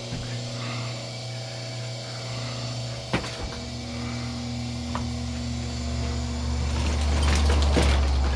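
Motorised wire stripping machine running with copper wire feeding through it, humming steadily. Two sharp clicks come about three and five seconds in, and the sound grows louder and rougher near the end.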